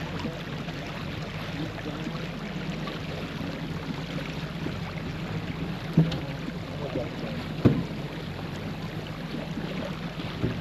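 Sailboat underway: water rushing along the hull and wind on the microphone, a steady noise with a low hum beneath it. Two sharp knocks of deck gear come about halfway through, a second and a half apart.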